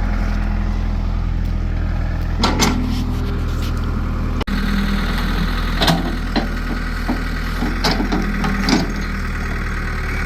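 Backhoe engine running steadily as it digs out a tree stump, with several short knocks and clanks from the digging scattered through.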